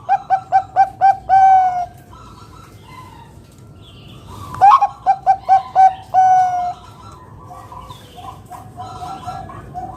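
Zebra dove (perkutut, Bangkok strain) cooing loudly: two song phrases about four and a half seconds apart, each a quick run of about five short coos ending in a longer drawn-out coo. A fainter series of coos starts about eight seconds in.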